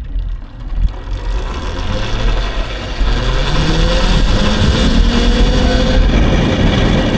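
Electric dirt bike's motor whining up in pitch as the bike speeds up from about a second and a half in, over a heavy rumble of wind on the microphone.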